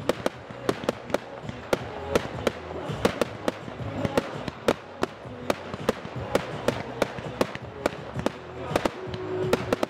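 Aerial fireworks going off in quick succession: a steady run of sharp cracks and bangs, several a second, over a crackling background.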